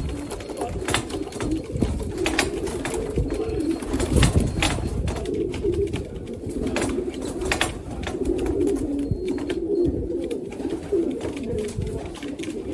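Racing pigeons cooing in a continuous low warbling chorus, with scattered sharp clicks and taps.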